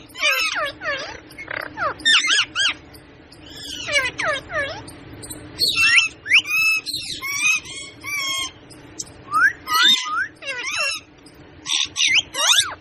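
Pet parrot calling in a rapid string of short, high, squawking calls that bend up and down in pitch, several a second with brief pauses.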